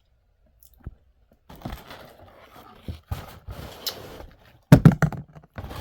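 Close-miked eating and food-handling sounds: irregular scraping and rustling of fried food and its packaging, with a louder thump near the end.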